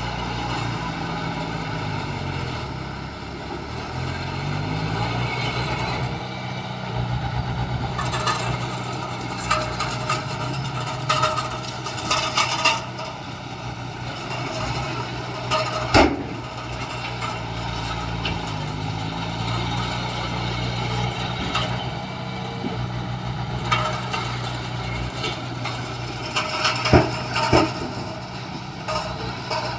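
Heavy diesel engine of construction machinery running, its pitch dipping and rising twice, with sharp metallic clanks now and then, the loudest about halfway through and near the end.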